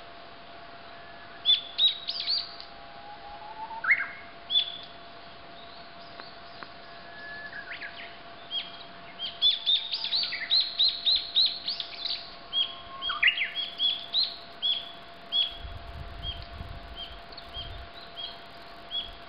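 Small birds chirping and singing: short high chirps and a few quick rising notes, sparse at first, then a fast run of repeated chirps through the second half.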